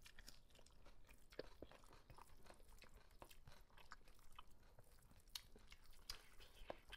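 Faint wet chewing and lip-smacking of two people eating rice by hand, with scattered small clicks throughout.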